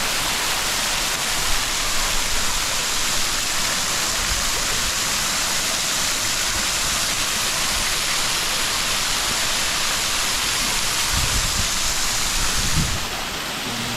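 Mountain river water rushing, a steady full hiss, which drops in level about a second before the end. A few low rumbles come shortly before the drop.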